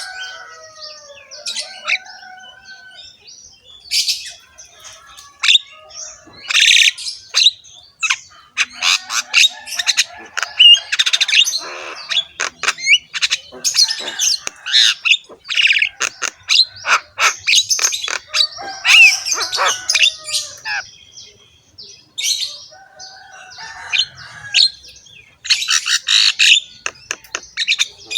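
Javan myna (jalak kebo) singing a long, fast run of harsh, rasping notes mixed with clicks and short whistles, with a brief pause about two-thirds of the way through.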